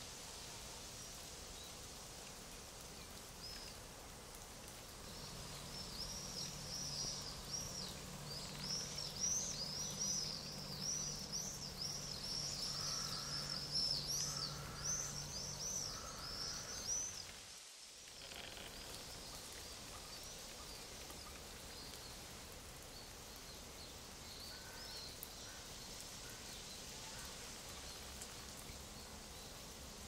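Songbird twittering in quick, high repeated notes for about ten seconds, over a steady hiss of leaves rustling in the breeze. A little past halfway the sound dips briefly, and after that only a few faint chirps come through.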